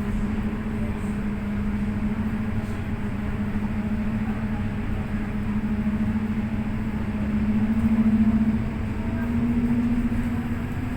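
FGV series 4200 tram running, heard from inside the car: a steady motor hum over the rumble of the wheels. The hum steps up in pitch near the end as the tram speeds up.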